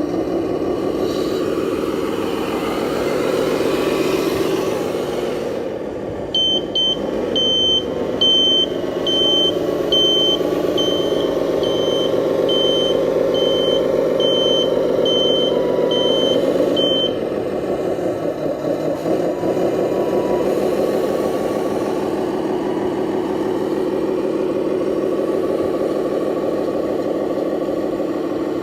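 Engine sound of an RC Scania dump truck running steadily. From about six seconds in until about seventeen seconds, a high reversing beeper sounds over it, about once every 0.7 seconds.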